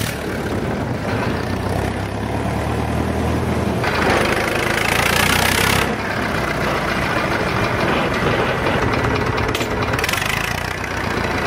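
Old tractor engines running, with a louder, noisier stretch from about four to six seconds in.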